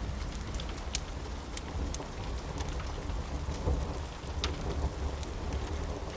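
Steady rain with a low rolling rumble of thunder, and scattered sharp crackles and pops from a wood fire in a fireplace.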